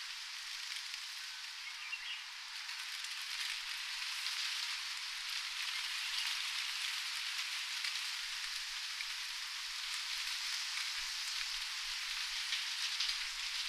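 Steady rain falling, an even hiss with fine scattered drop patter that swells slightly a few seconds in.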